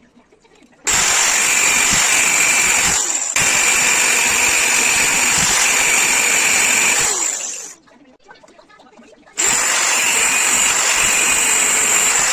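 Electric power tool running in two long bursts, a high whine over a harsh hiss. Each run starts suddenly and the first winds down when it is switched off.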